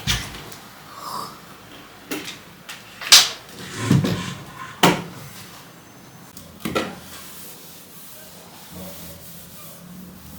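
Household handling sounds: about six sharp knocks and clacks spread over several seconds, with some rubbing between them, typical of cupboards, drawers and objects being moved during cleaning.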